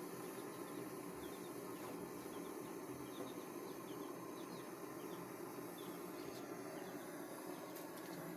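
Faint, quick bird chirps repeating over a steady low hum.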